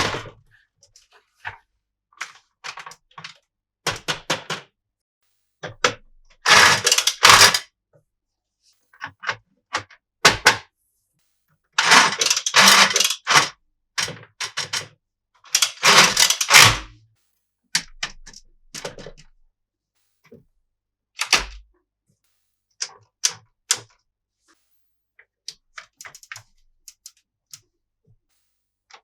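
Toy play set pieces being handled: scattered clicks, taps and knocks, with three longer rustling, scraping bursts about six, twelve and sixteen seconds in.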